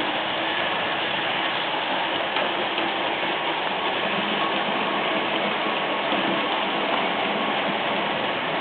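Märklin H0 model train running steadily on the layout: an even whirr of motor, gears and wheels rolling on the track, with no pauses.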